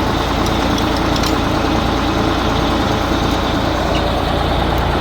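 A 1988 Amertek 4x4 fire truck's engine idling steadily.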